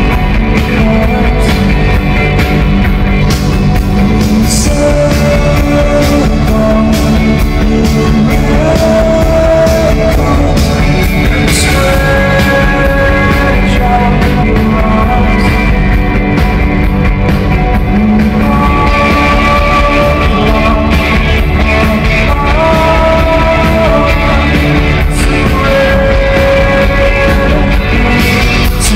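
A rock band playing live in an arena, with a singer holding long notes over steady guitars and drums.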